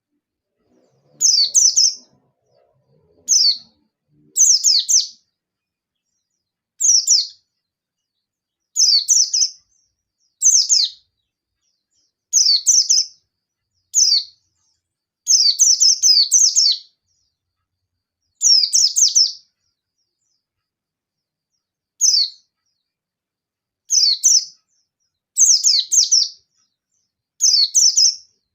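Yellow-breasted white-eye (pleci) singing an agitated challenge song in short, high, rapid phrases of falling notes, one phrase every second or two, with a longer pause about two-thirds of the way through. This is a call to a rival, used to make other white-eyes answer.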